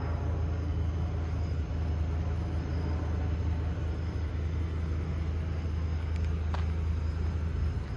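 The Ford E350 box truck's 6.8-litre V10 gas engine running steadily with a low, even hum. A single short click sounds about six and a half seconds in.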